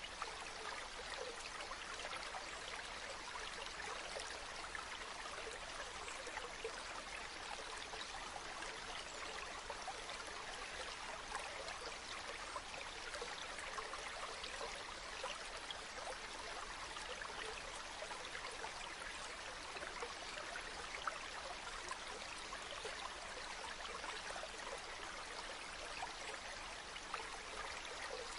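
Running water flowing steadily, a stream's continuous rush and splash with no deep rumble.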